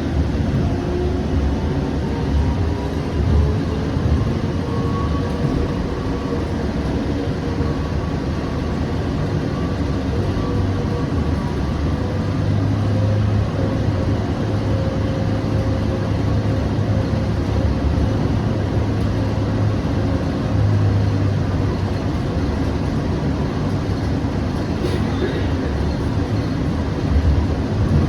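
Siemens S700 light rail car running between stations, heard from inside the car: a steady rumble of wheels on track with a faint motor whine. The whine rises in pitch over the first several seconds as the car gathers speed, then holds steady.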